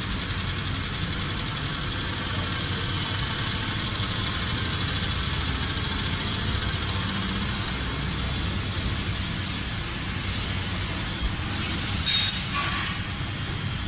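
Industrial machine running: a steady high whine over a low rumble, the whine breaking off and shifting pitch a few times near the end.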